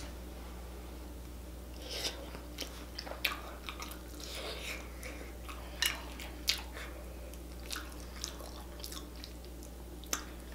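Close-up eating sounds of soft potatoes in a thick sauce: wet chewing and lip smacks, with sharp clicks scattered irregularly throughout, over a low steady hum.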